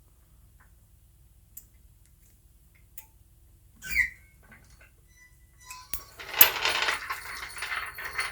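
Metallic clinks, then a loud ringing clink about four seconds in, and a couple of seconds of jangling metal clatter near the end, like small metal parts or hand tools knocking together.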